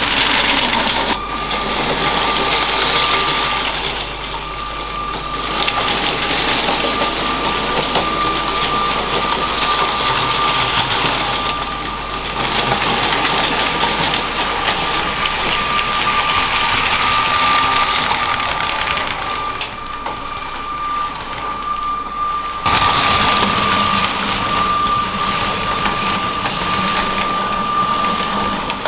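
Small electric motor of a LEGO train whining at a steady high pitch, over the rattle of plastic wheels rolling on plastic track. The background changes abruptly a few times, about a second in, around four, six and twelve seconds in, and again near the end.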